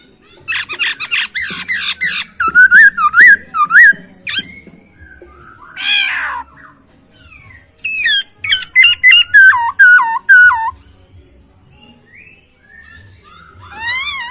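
Poksay Hongkong (black-throated laughingthrush) singing loudly in phrases of clear whistles, rapid trills and fast runs of repeated notes. The song stops for a couple of seconds before a last phrase near the end.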